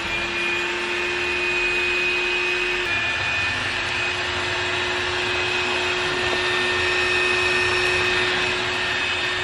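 Bobbot cordless stick vacuum cleaner running with its floor brush head, a steady motor whine over rushing air as it sucks up hair and dust from the floor.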